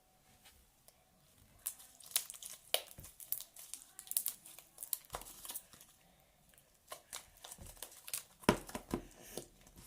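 Glitter slime and its plastic container handled: a run of quick crackles, pops and clicks in two bouts, the loudest near the end.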